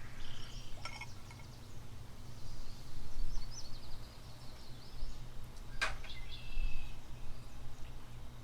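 Small birds chirping in short phrases over a steady low outdoor rumble, with one sharp click about six seconds in.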